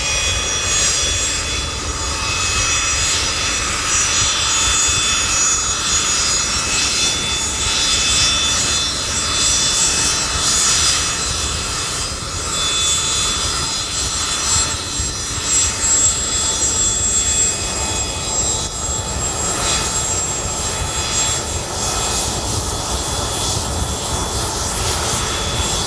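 Turbine aircraft engines running steadily: a high whine of several held tones over a constant low rumble.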